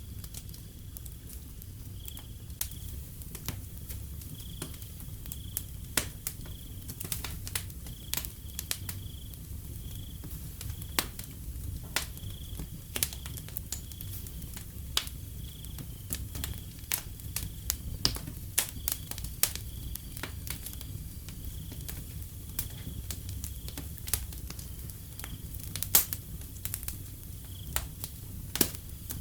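Wood fire crackling with frequent irregular pops over a low steady rumble, while crickets chirp in a faint, evenly repeating high pulse.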